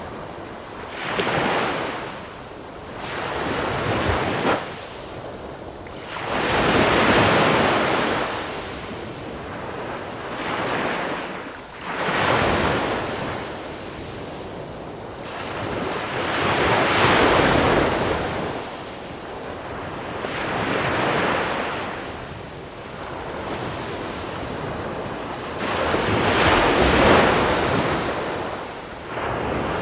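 Small sea waves breaking onto a shore of small pebbles, one surge every few seconds, each swelling up and washing back. The three largest come about ten seconds apart.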